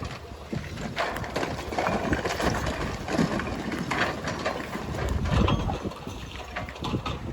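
Irregular knocking and clattering over a low rumble, with the loudest stretch a little past the middle.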